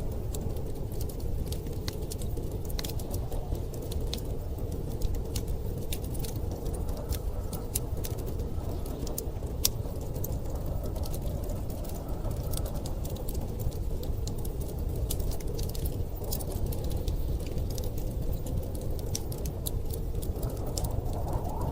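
Wood fire crackling with frequent sharp little pops, over a steady low rush of storm wind.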